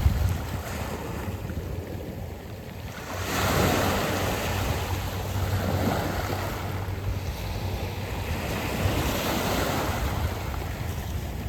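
Sea waves washing in over a beach of round pebbles. One wave surges in about three seconds in and slowly draws back, and another swell comes near the end. A steady low wind rumble on the microphone runs underneath.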